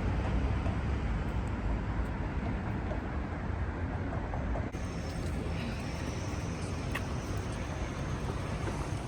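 Steady, low vehicle rumble. A little before halfway the sound changes abruptly, and a faint high whine and a few light clicks come in.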